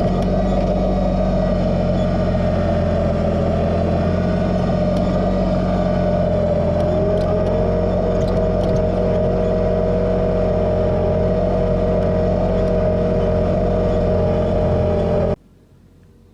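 Kubota BX2380 sub-compact tractor's three-cylinder diesel engine running steadily under work, with a higher whining tone coming in about seven seconds in. The sound cuts off suddenly near the end.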